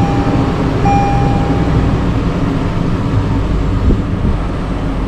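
2023 Toyota 4Runner's 4.0 L V6 idling steadily just after its oil change, run to circulate the fresh oil before the level is checked. A repeated electronic chime of long, even beeps sounds over it for the first two seconds, then stops.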